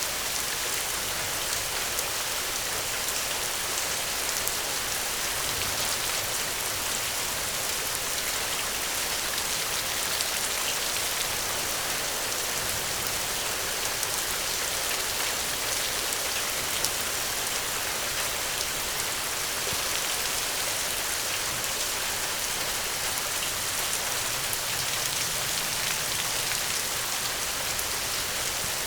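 Steady rainstorm: an even hiss of rain with a dense patter of individual drops, unchanging in level.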